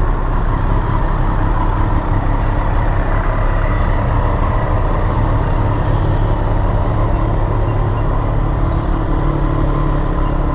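Triumph Street Triple RS's 765 cc three-cylinder engine idling steadily while the bike is moved slowly into a parking spot.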